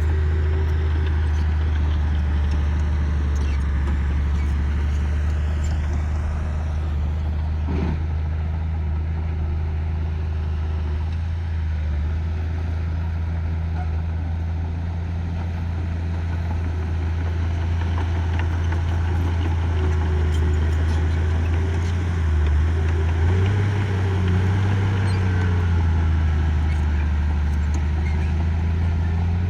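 The diesel engine of a piece of earthmoving machinery running steadily with a deep hum. Its pitch rises and falls for a few seconds in the last third, and there is a single short knock about a quarter of the way through.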